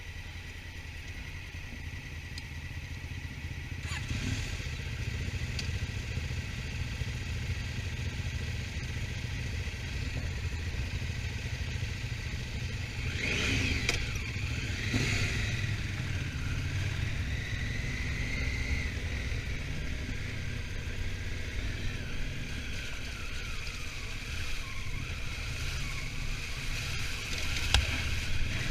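Honda Africa Twin's twin-cylinder engine running steadily under way, with wind and road noise. About halfway through there is a brief rising-and-falling sweep of higher sound.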